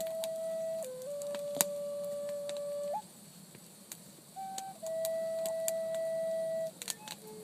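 A slow, flute-like melody of long, pure held notes, stepping between a few pitches with a pause of about a second and a half midway. Sharp crackling clicks are scattered throughout.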